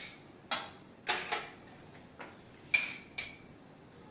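Kitchen utensils clinking against a bowl, about seven short ringing taps at uneven intervals, as chopped fenugreek leaves are added to the batter bowl.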